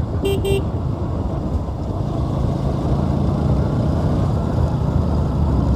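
Bajaj Pulsar NS200's single-cylinder engine running steadily while riding at a constant pace, with wind and road noise. A brief two-pulse beep sounds about half a second in.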